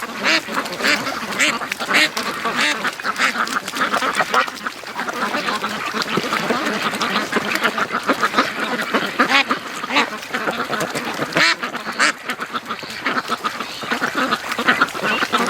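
A flock of domestic Pekin and Rouen ducks quacking continuously, many birds calling over one another in quick, overlapping runs of quacks.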